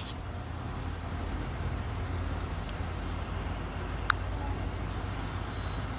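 Steady low rumble of vehicles and road traffic, with one short tick about four seconds in.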